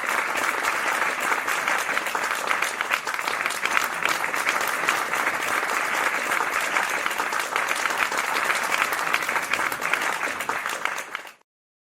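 Audience applause, steady, then fading out to silence near the end.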